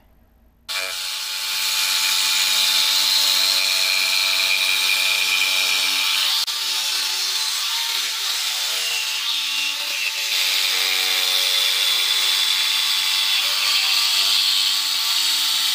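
An electric power tool running steadily, a motor hum under a loud hiss, with brief dips about six and ten seconds in. It starts suddenly about a second in and cuts off suddenly at the end.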